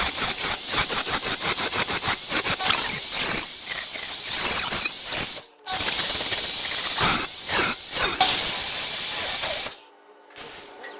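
Power saw cutting into wood, a loud, fast rattling buzz that breaks off briefly about halfway and again near the end.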